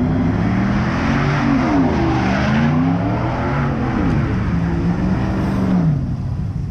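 A car's engine revving up and down hard over the steady hiss of spinning tyres, as in a burnout or donuts; the revs and tyre noise drop away about six seconds in.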